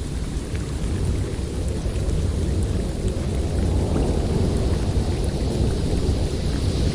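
Blizzard wind: a steady, deep rumble of storm wind with a higher hiss that dies down early on and swells again near the end.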